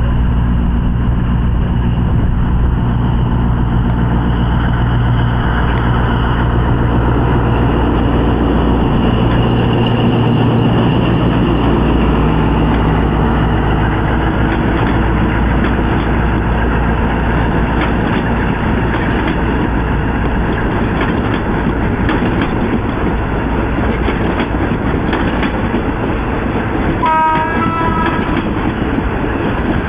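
Diesel locomotive hauling a passenger train past. The engine's steady drone dominates at first, then gives way to the rattle and clicking of the coaches' wheels on the rails as they roll by. Near the end comes a short pitched toot lasting under a second.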